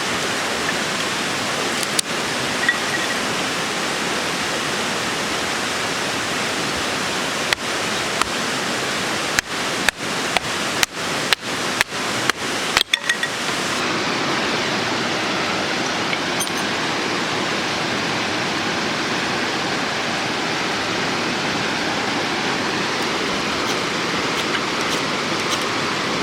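Mountain stream rushing steadily. A run of about ten sharp clicks, close together, falls around the middle.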